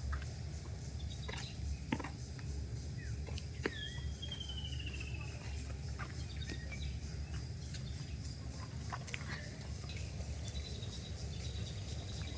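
Outdoor bush ambience: a steady high insect buzz over a low rumble, with scattered clicks. About four seconds in, a bird gives one call, a short whistle followed by a trill that slides down in pitch.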